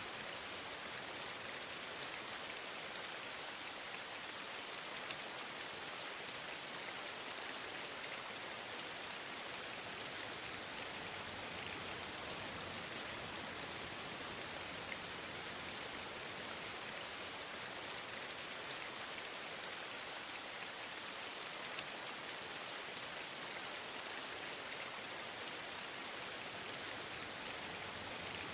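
Steady rain falling, an even hiss with scattered small ticks of drops striking a surface.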